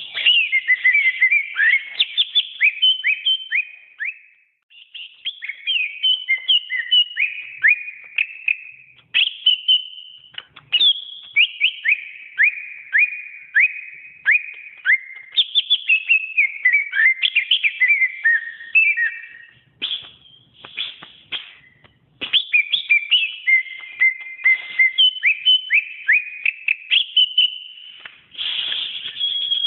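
Cucak ijo (green leafbird) singing: long, fast runs of clear whistled notes and sliding chirps, with brief pauses between phrases.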